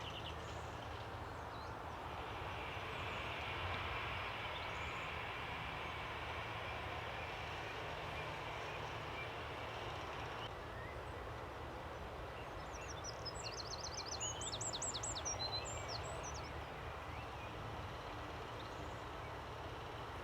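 Airbus A330-200's Pratt & Whitney turbofans heard from a distance at low taxi power as it lines up, a steady whine over a low rumble that drops away about halfway through. A small bird chirps rapidly in the middle.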